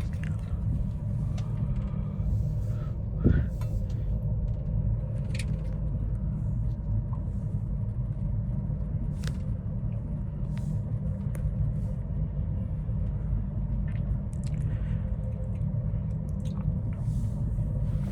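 Steady low rumble inside a moving gondola cabin as it travels up the cable, with a faint steady hum. One knock comes about three seconds in, and faint clicks are scattered through.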